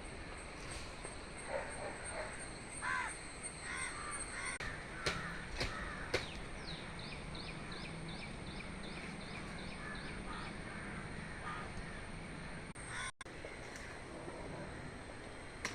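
Crows cawing several times over outdoor background hiss, followed by a quick run of a dozen or so short, high chirps.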